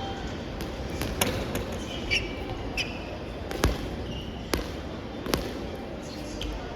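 Soft volleyball being struck and bouncing on a gym court: a series of about seven sharp slaps and thuds at uneven intervals, the loudest a little past halfway, with a few short high squeaks among them.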